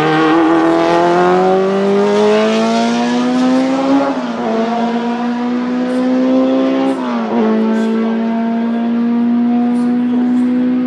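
BMW M12/7 2.0-litre four-cylinder Formula 2 racing engine at high revs, its pitch climbing and then dropping sharply at two upshifts, about four and seven seconds in, then running steadily at high revs.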